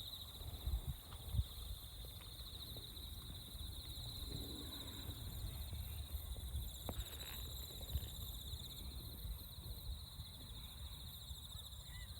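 Insects chirping steadily and evenly in a high, fast-pulsing chorus over a low outdoor rumble, with a few soft knocks in the first second or so; no engine is running.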